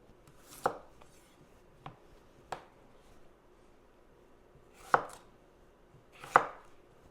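Kitchen knife chopping on a cutting board while dicing potatoes: five sharp, unevenly spaced knocks, the loudest two in the second half.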